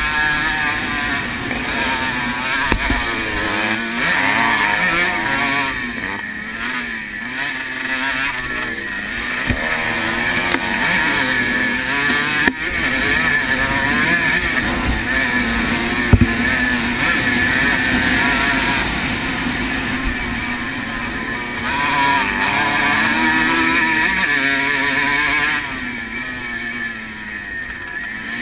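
1980 Honda CR125R's two-stroke single-cylinder engine at race speed, revving up and dropping back again and again as the rider shifts through the gears, with wind noise on the microphone. A few sharp knocks come through mid-way.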